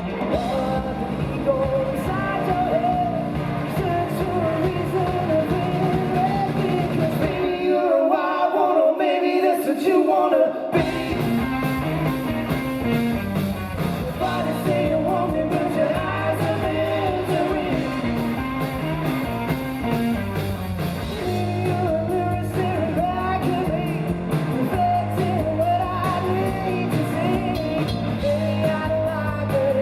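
A rock band playing live, electric guitars over bass and drums. The bass and drums drop out for about three seconds, then come back in.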